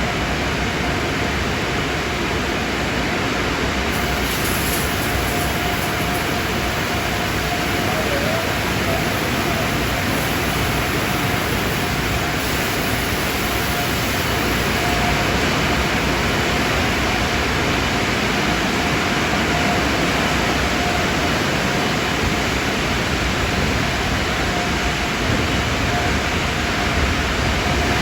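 Steady rushing noise with a faint steady hum, unchanging throughout.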